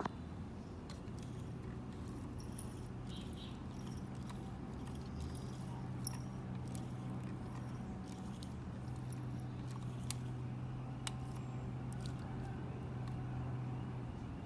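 An excavator's motor running with a steady hum, with scattered light clicks and rattles from its moving parts.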